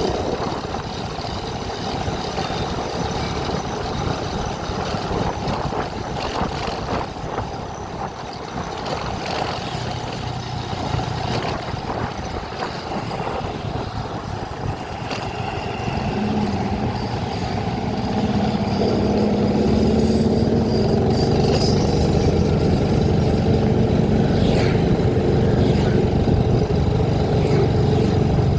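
Vehicle engine and road noise while driving. The engine sound grows louder about two-thirds of the way through and then holds steady.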